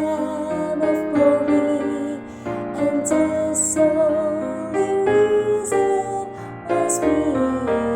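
A woman singing a soprano line with piano accompaniment: slow, held notes with vibrato and clear sung consonants.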